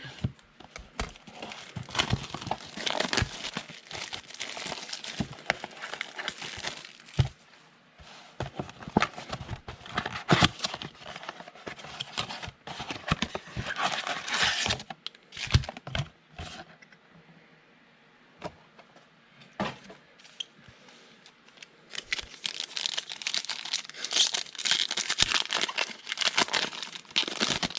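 Crinkling and tearing of the wrapping on 2019 Absolute football card packaging as it is opened by hand. The crackling dies down for a few seconds past the middle, then picks up again.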